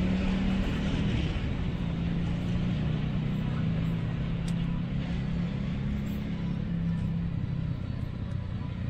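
Low rumble and engine hum of a train just gone past, slowly fading as it moves away.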